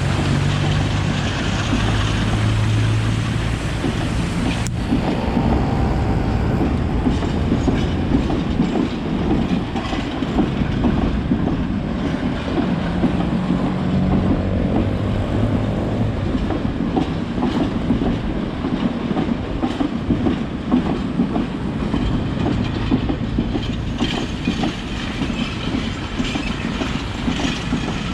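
A diesel-hauled train passing: the locomotive's engine hum, with the wheels clicking over the rail joints, the clicks coming thick from about five seconds in.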